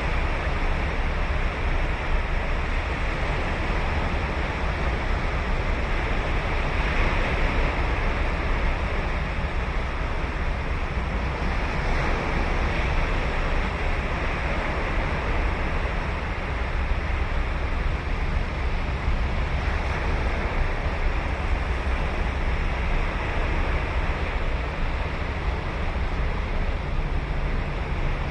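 Ocean surf breaking and washing up the beach: a continuous rush of water with a deep low rumble, swelling a little louder about a quarter of the way through and again near the middle.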